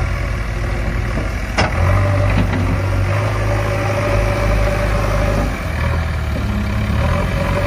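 An engine running steadily with a low hum, and one sharp click about one and a half seconds in.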